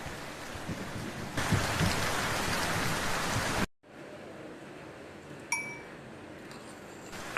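Heavy rain falls in a steady hiss that grows louder after about a second and a half, then cuts off abruptly to a much quieter hiss. In the quieter part there is a single short ringing clink.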